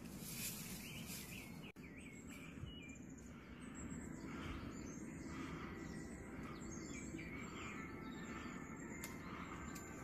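Small birds chirping over and over, short high calls over a low steady background rumble.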